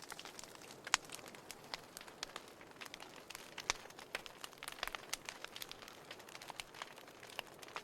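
Wood fire crackling in a fireplace: irregular sharp pops and snaps over a soft hiss, a few of them louder, about a second in and near the middle.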